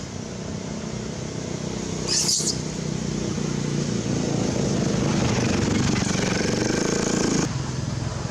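A motor vehicle engine running, growing louder over several seconds and cutting off abruptly about seven and a half seconds in. A brief sharp high-pitched sound comes about two seconds in.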